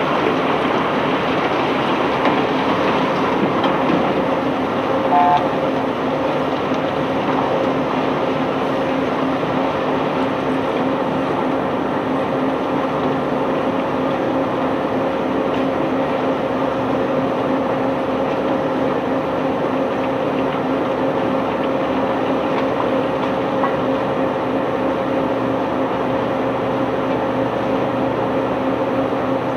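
Cargo-unloading machinery running steadily: a constant mechanical hum over a dense rumble, with a brief higher two-note chirp about five seconds in.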